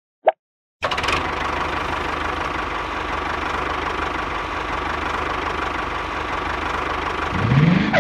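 An engine running steadily, a dense rattling sound that starts abruptly about a second in. Near the end it gives a short rising whine, like a rev.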